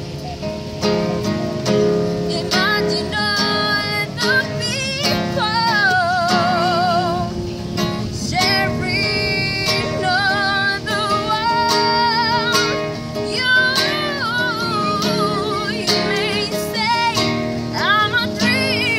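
Live acoustic music: a singer holding and sliding notes with a wide vibrato over a plucked acoustic guitar accompaniment.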